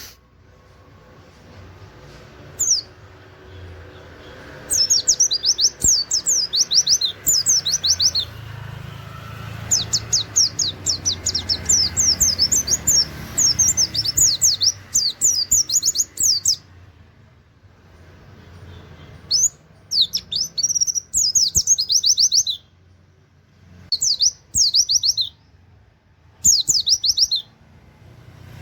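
A pleci (white-eye) sings in rapid bursts of high, quick downward-sweeping notes, the 'nembak' song with canary-like 'wit wit' phrases. The bursts last a few seconds each, the longest about midway, with short pauses between.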